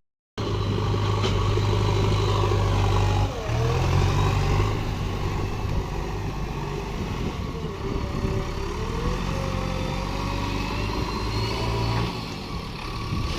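JCB 3DX backhoe loader's diesel engine running and revving as the machine works, its pitch dipping and rising again about 3 seconds in and around 8 seconds. The sound drops out completely for a moment at the very start.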